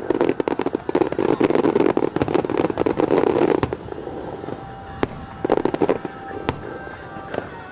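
Fireworks display: a dense, rapid crackle of many bursting shells for the first three and a half seconds. This gives way to a few separate bangs and one short crackling cluster about two seconds later.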